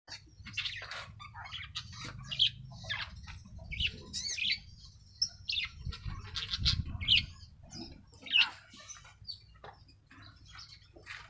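Birds chirping and calling in quick, irregular short notes, over a low rumble.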